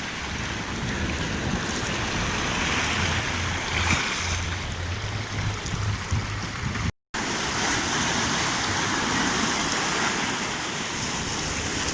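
Strong Black Sea surf, waves breaking and washing in a steady rush, with a little wind buffeting the microphone. The sound cuts out completely for an instant about seven seconds in.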